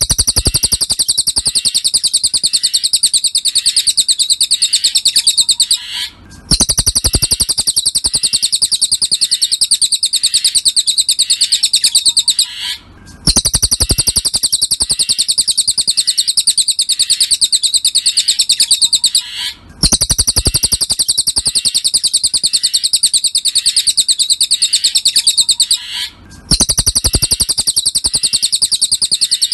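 Cililin bird singing: a fast, high-pitched trill of rapidly repeated chirps. It comes in phrases of about six seconds with short breaks between them, as in a looped masteran training recording.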